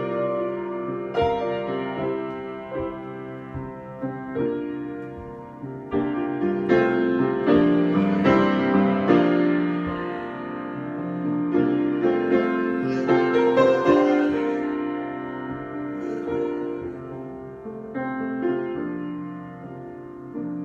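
Solo piano improvisation: struck chords and melody notes ringing and overlapping, swelling louder through the middle and then thinning out.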